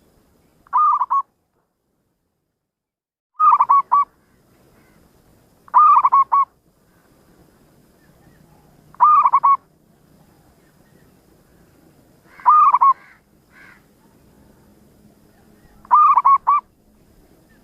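Zebra dove (perkutut) cooing: six short phrases about three seconds apart, each a quick run of three or four clipped notes.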